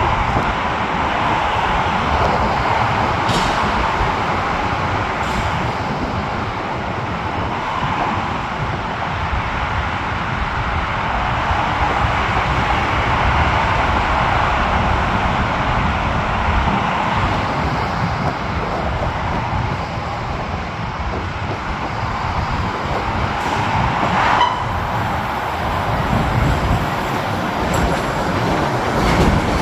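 CTA 'L' Blue Line rapid-transit train running through the station: a steady, continuous rumble of wheels on rail and traction motors. A few short sharp clicks sound over it.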